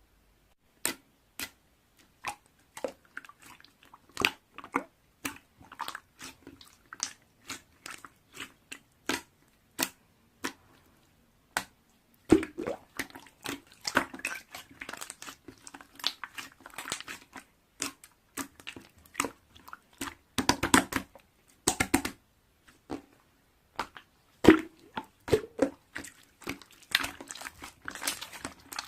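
A long, irregular series of short, sharp clicks and crunches close to the microphone, coming thicker and in clusters from about halfway through.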